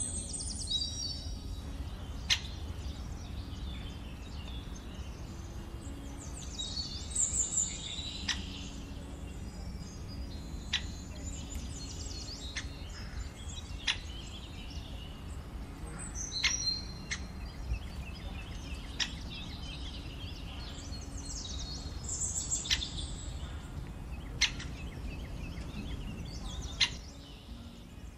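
Birds chirping and calling in short repeated phrases, over a steady low outdoor rumble, with a dozen or so sharp clicks scattered through.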